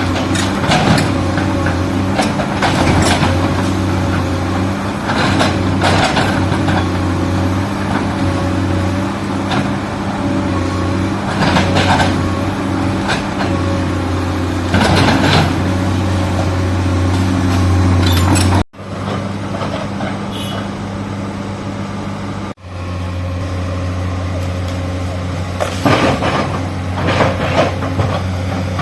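Excavator diesel engine running steadily under load while digging, with repeated clanks and scrapes of the bucket working the ground. The sound drops out sharply twice near the end.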